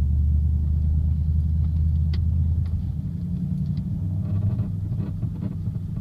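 Low buzzing drone heard inside the cabin of a 2007 Audi S4 driving under load at low revs; the drone moves up in pitch about three seconds in. It is a load-dependent buzz or rattle that comes only between about 1300 and 1500 rpm and not at idle, and its cause is still undiagnosed.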